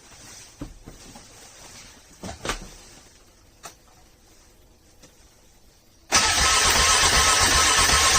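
ATV engine cranking over on a cold start, hard to start. A few faint clicks and knocks come first; then, about six seconds in, the cranking cuts in suddenly, loud and steady with a fast low chugging.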